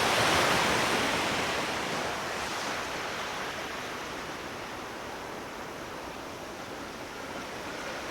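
Sea waves: a wave breaks at the start and its wash fades slowly away over the following seconds.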